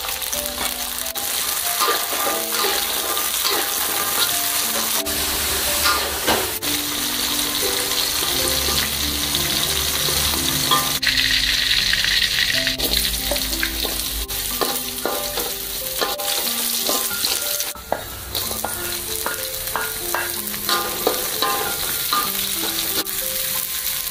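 Turkey berries (rimbang) frying in hot oil in a wok, making a steady sizzle. A light melodic background tune plays underneath.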